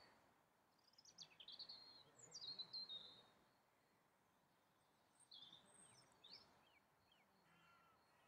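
Faint songbird song: short bursts of high, quick, warbling notes, once about a second in and again around five seconds in, over quiet outdoor background noise.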